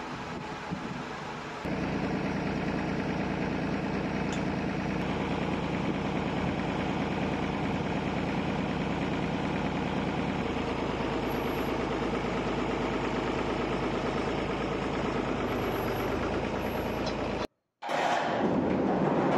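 Tractor engine running steadily, suddenly louder about a second and a half in. Near the end it cuts out completely for a moment, and a louder, different sound takes over.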